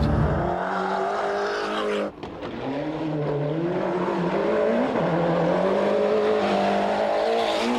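A rally car's engine running hard, the revs rising and falling again and again, with a sharp brief drop in sound about two seconds in.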